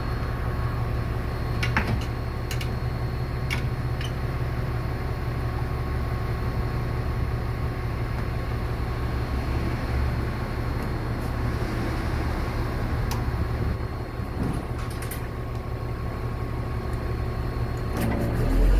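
Scania R500 truck's diesel engine running steadily, with a thin steady whine over it and a few light clicks in the first few seconds. Near the end the engine note changes and gets louder.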